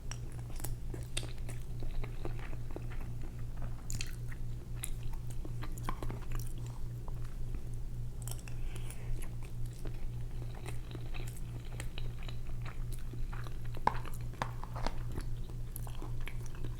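Close-miked chewing of leftover Rice-A-Roni: irregular wet mouth clicks and smacks, over a steady low hum.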